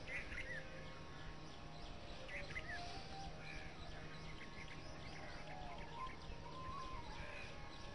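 Small birds chirping faintly, with clusters of short high chirps near the start and about two and a half seconds in and a few brief whistled notes later, over a steady low hum and background noise.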